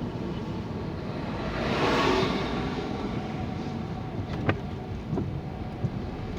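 Steady road and engine noise heard from inside a slowly moving car, with a broad rushing sound that swells and fades about two seconds in and a few faint clicks near the end.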